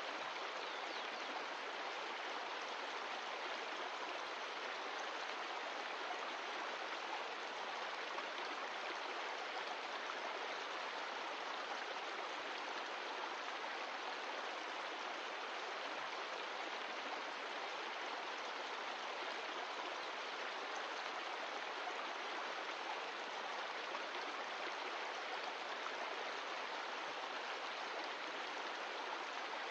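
Mountain stream of glacial meltwater running steadily over rocks, a constant rushing and splashing.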